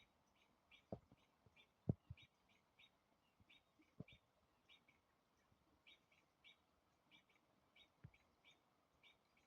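Small birds giving faint, repeated short high chip calls, a few each second: alarm calls of birds mobbing an owl. A few low thumps cut in, the loudest about two seconds in.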